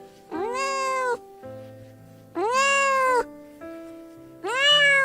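Domestic cat meowing three times, each meow about a second long and rising then falling in pitch, over background music.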